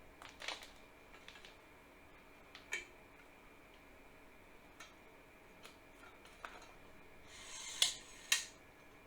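Scattered light clicks and taps of small hard objects being handled, with a short rising hiss near the end that ends in two sharper clicks half a second apart.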